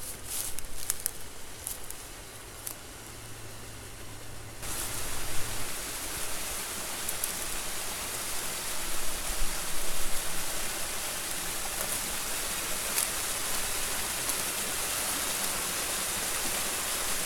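Small waterfall rushing steadily, starting suddenly about four to five seconds in. Before it, a few light crackles and rustles.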